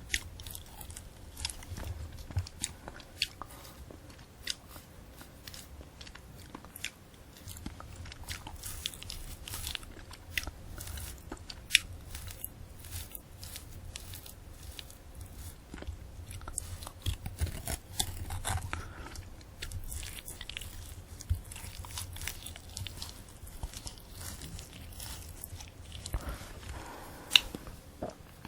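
Close-miked chewing of a candy apple: the hard red sugar shell and crisp apple crunching and crackling between the teeth, with many sharp clicks throughout and a burst of louder crunches near the end.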